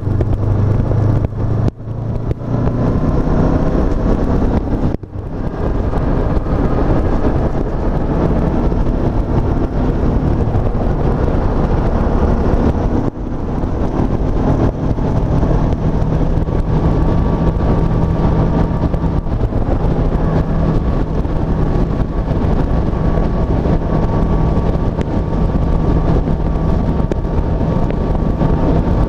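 Honda CB500F motorcycle's 471 cc parallel-twin engine running under way on a ride, with three short drops in level, two early on and one about halfway.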